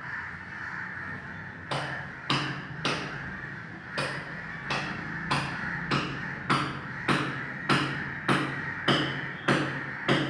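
Hammer striking in a steady rhythm, about one blow every 0.6 seconds, starting a little under two seconds in.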